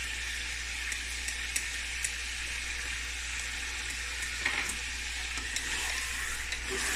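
Chicken pieces frying with onions and dry spices in a metal pot, a steady sizzle as the masala is cooked down (bhuna). A few light spatula clicks come in the first half, and later the pieces are stirred, the spatula scraping the pan.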